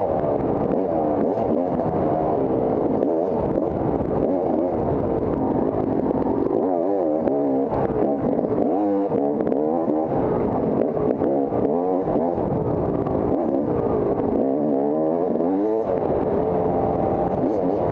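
Off-road dirt bike engine running hard, its pitch rising and falling again and again as the throttle is opened and closed.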